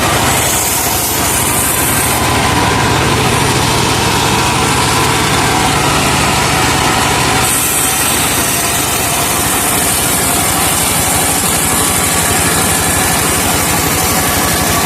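Engine of a truck-mounted sawmill running steadily under load as it drives the saw, with the sound changing about halfway through.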